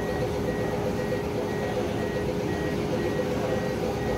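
A faint electronic beep repeating rapidly, about three to four times a second, over a steady hum and background noise.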